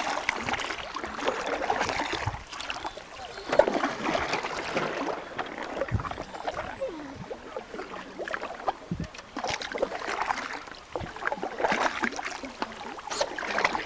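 Canoe paddles dipping and pulling through the water in irregular strokes, with splashes, drips and an occasional knock.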